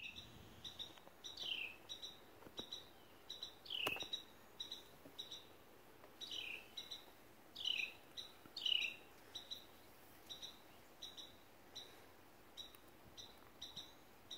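Birds chirping faintly: short high chirps repeating steadily, about twice a second, with louder falling-pitch calls every second or few. A single sharp click about four seconds in.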